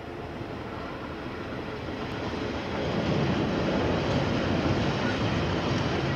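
Diesel freight train passing: the locomotives' rumble grows louder as they approach, reaching full level about three seconds in and holding steady as they go by.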